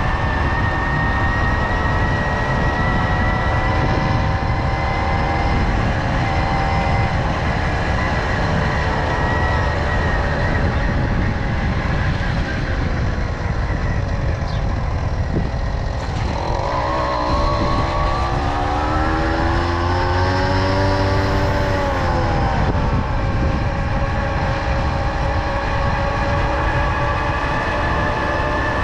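Tomos moped's small two-stroke engine running steadily at riding speed, its pitch drifting slightly, with wind buffeting the microphone. A little past halfway, a second, lower engine note rises and then falls over several seconds.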